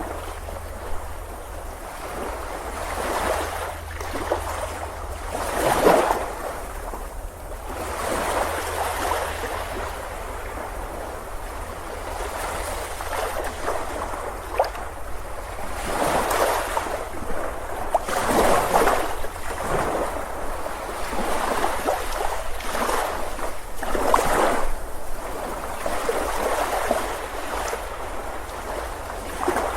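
Ocean waves breaking on a beach and washing up the shore, surging in again every few seconds over a steady low rumble of surf.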